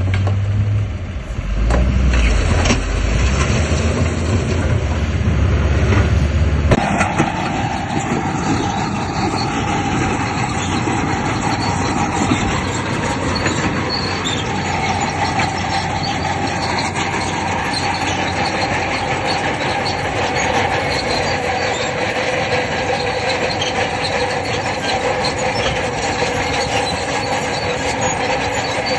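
Crawler bulldozer working: a deep engine rumble that cuts off abruptly about seven seconds in, followed by its steel tracks squealing and clattering steadily.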